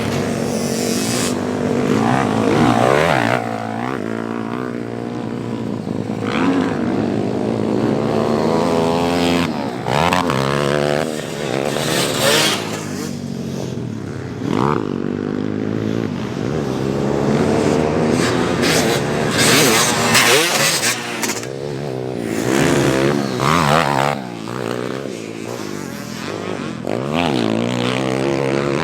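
Small off-road engines revving hard and dropping off again and again, their pitch rising and falling every second or two as they are ridden around a motocross track.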